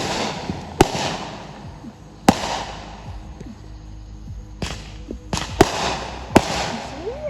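Fireworks going off: a string of sharp bangs spaced irregularly, several followed by a crackling spray.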